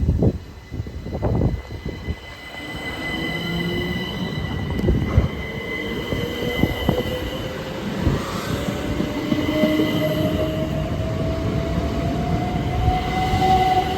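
Electric train moving off, its motor whine rising steadily in pitch throughout, with a few knocks in the first couple of seconds and a high steady ring above it.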